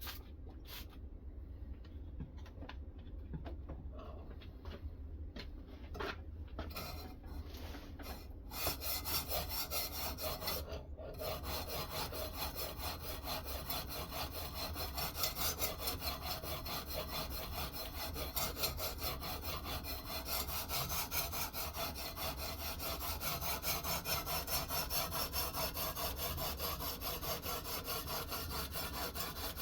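A sharpening stone on a guided knife-sharpening system scraping back and forth along a Fintiso knife's edge. A few separate strokes at first, then rapid, steady back-and-forth strokes from about eight seconds in, with a brief pause a few seconds later.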